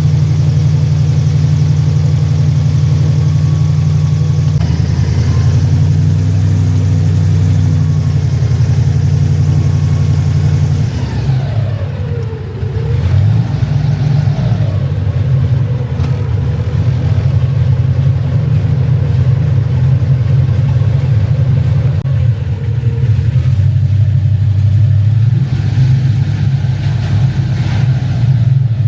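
Engine running steadily with a deep hum; about eleven seconds in its speed drops briefly, then picks back up.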